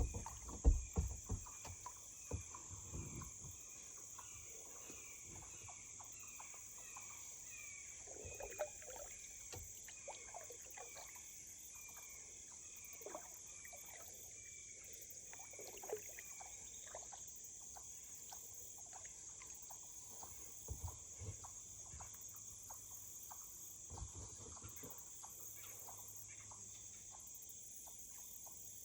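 A few knocks of a kayak paddle against the boat in the first seconds, then an animal repeating a short high call steadily, about once or twice a second, for some fourteen seconds over a steady high hiss, with occasional light knocks later on.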